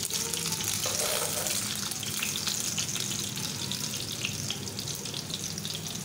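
Chicken sausages sizzling and crackling as they fry in hot ghee in a pan, with the scrape and tap of a metal spatula turning them.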